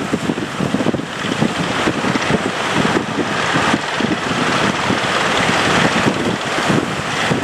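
Wind buffeting the microphone over the rushing hiss of a rough sea, the hiss swelling louder around the middle.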